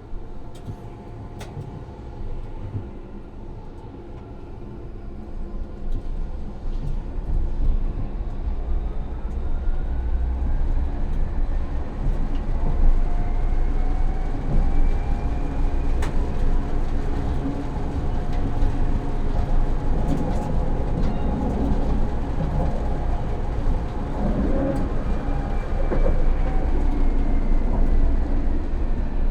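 Tram heard from the driver's cab, pulling away and gathering speed: a steady low rumble of wheels on rail grows louder over the first several seconds, and a thin traction-motor whine rises in pitch, then falls again near the end as it slows.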